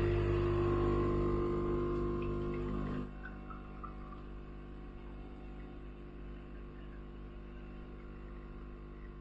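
De'Longhi Dedica Style espresso machine's vibratory pump buzzing as it pumps water through the coffee; it drops to a quieter, steady hum about three seconds in.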